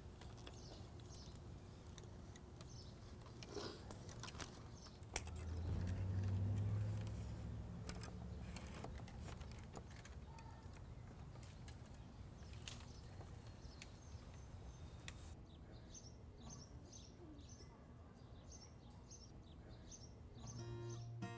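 Small birds chirping, with a quick regular series of chirps, about two a second, in the last third. A low rumble swells about five seconds in and fades a few seconds later, with a few sharp clicks scattered through.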